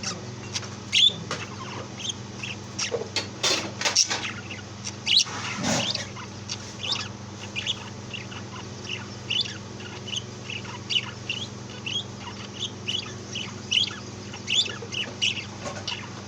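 Birds chirping and calling: a steady run of short, high chirps throughout, with a few louder, fuller calls in the first six seconds.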